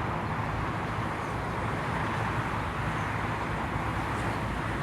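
Steady, even rumble and low hum of Amtrak trains at a station platform.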